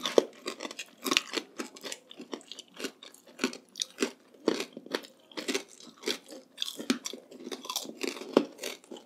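Crunching and chewing of crispy chicharon bagnet, deep-fried pork belly cracklings, with many irregular crisp crunches several times a second.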